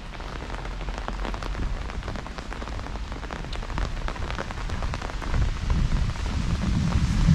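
Heavy rain falling, with many sharp individual drop impacts. A low rumble builds over the last couple of seconds and the sound grows louder.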